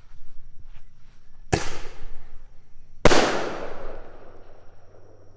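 Double salute firework going off: two sharp bangs about a second and a half apart, the second louder and echoing away over a couple of seconds.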